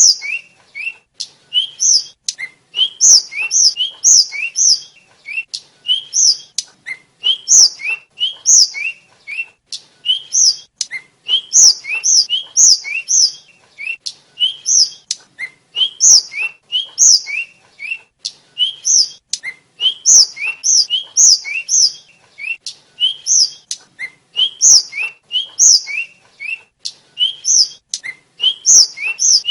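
A tledekan (sikatan, a blue flycatcher) singing a fast, continuous song of short, sharp whistled notes and rising chirps, several a second without pause.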